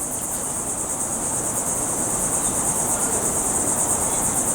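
Steady, high-pitched insect chorus, a fast pulsing buzz that carries on unbroken.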